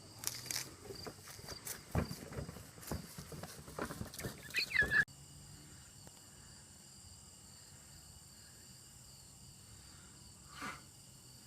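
Footsteps and rustling, with scattered knocks, for about five seconds, then an abrupt cut to crickets chirping steadily.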